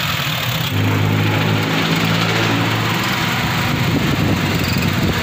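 Honda City car engine running after being started, a low steady hum that grows louder a little under a second in and wavers in pitch near the end.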